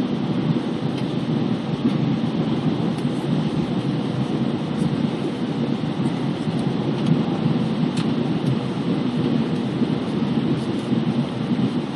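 Airbus A320 cabin noise: the steady drone of engines and airflow heard from inside the cabin on final approach.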